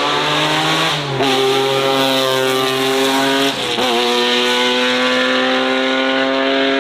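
Race car engine accelerating hard, with its note climbing and then dropping sharply at two upshifts, about a second in and again a little past the middle. Between and after the shifts it holds a loud, high note.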